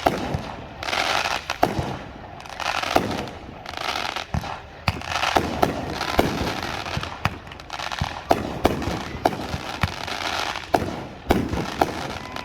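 Fireworks show: aerial shells bursting one after another, many sharp bangs, some in quick clusters, with stretches of hissing noise between them.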